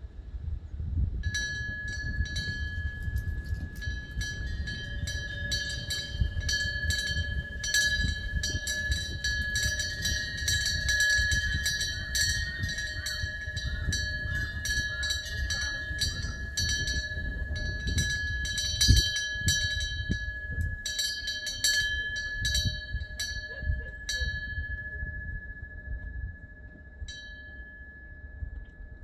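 Korean temple wind bell (pungyeong) ringing as the wind swings its clapper, with rapid repeated strikes and a clear ring that hangs on between them. Wind rumbles on the microphone underneath. The strikes stop about four-fifths of the way through and the ring fades, with one last light strike near the end.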